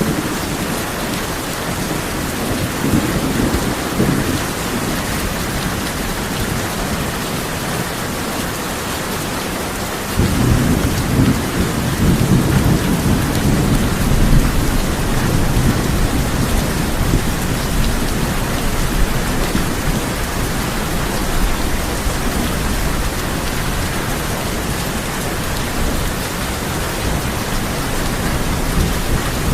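Heavy rain falling steadily on a tin roof, with low thunder rumbling under it. A deeper, louder rumble sets in suddenly about a third of the way in and rolls on.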